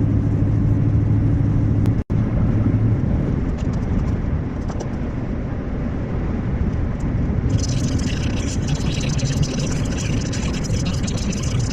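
Scania V8 580 truck engine running steadily with road noise while driving. The sound cuts out for an instant about two seconds in. A loud hiss joins about seven and a half seconds in.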